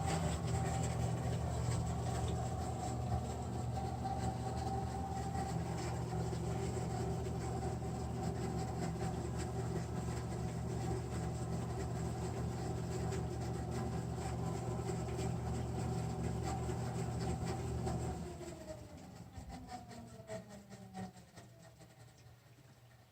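Electric blower motor in an American Standard Freedom 90 single-stage gas furnace, running with a steady hum. About three quarters of the way through it shuts off and winds down, its pitch falling, leaving faint irregular clicks.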